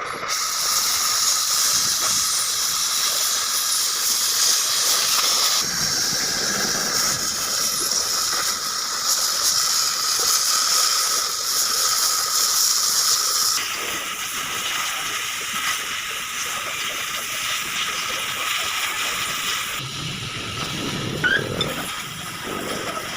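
Oxy-fuel gas cutting torch hissing steadily as it cuts steel, the hiss stepping down a little in level a few times.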